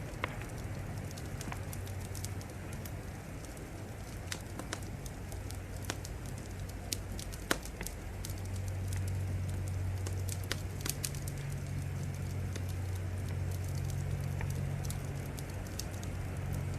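Wood fire crackling, with irregular sharp pops and snaps, the loudest about halfway through, over a steady low rumble that swells slightly after the middle.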